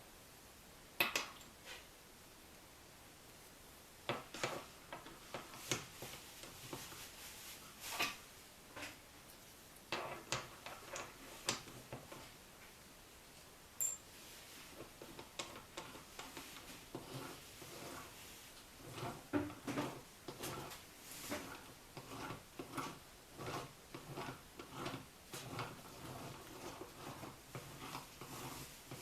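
Hand tools and small metal engine parts being handled: scattered light clinks and knocks, then from about halfway through a steady run of short clicks, roughly two a second, like a wrench or ratchet being worked.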